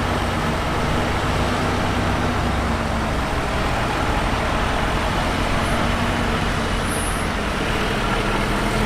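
Diesel engine of heavy earthmoving equipment running steadily, a constant low engine drum over mechanical noise.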